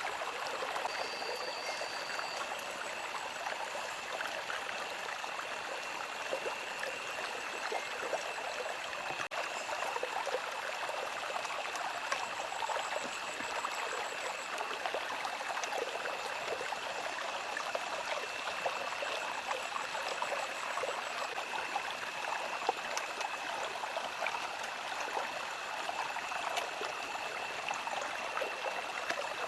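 Water flowing and trickling steadily, like a small stream, with a thin steady high-pitched tone running through it.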